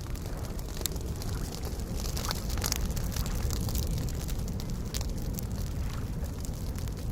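Campfire crackling, with scattered sharp pops, over a steady low rumble of soft lake waves.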